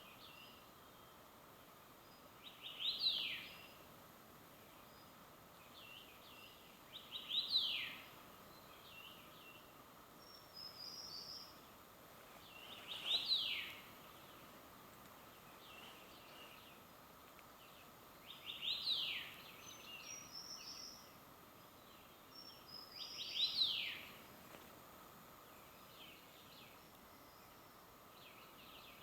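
A songbird singing a repeated phrase about every five seconds, five times: a few short notes and then a loud note sliding down in pitch. Softer, short high twitters come in between, over a steady background hiss.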